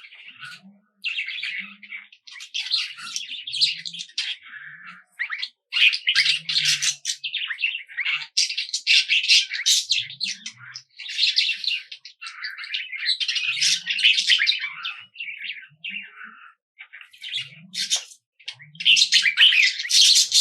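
Small forest birds chirping and twittering, many short calls overlapping in busy bouts with brief lulls, with faint low notes now and then.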